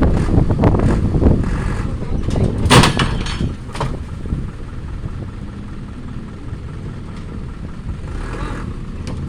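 Truck engine running with a steady low rumble, louder in the first few seconds. A loud clatter cuts in about three seconds in, with a shorter knock just after it and a softer rustle near the end.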